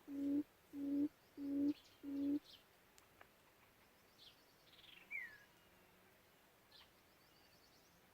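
Quail call: a series of four low, even hooting notes, which stops about two and a half seconds in. Faint high chirps of small birds follow.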